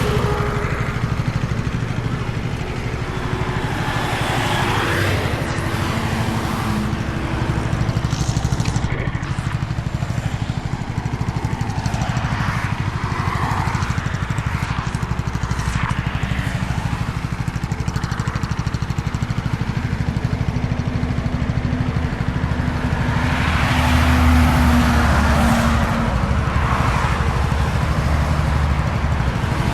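KTM Duke 250's single-cylinder engine running at a steady road speed, with wind and road noise. Swells of louder noise come and go several times, the loudest about two-thirds of the way through.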